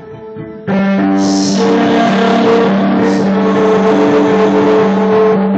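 Live instrumental music recorded on a phone, with no singing. A soft held tone gives way, under a second in, to the full band coming in loudly over a steady low drone, with repeated held notes above it.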